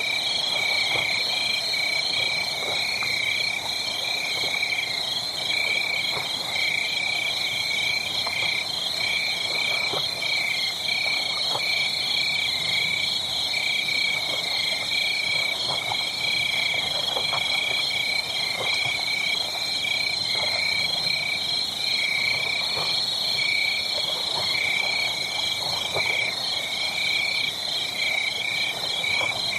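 A chorus of frogs trilling in steady, rapid pulses, with scattered faint crackles of a wood fire beneath.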